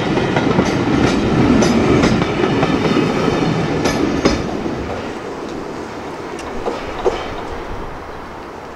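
Passenger coaches rolling past, their wheels clacking over rail joints with a heavy rumble; the sound fades away steadily from about halfway through as the train pulls out.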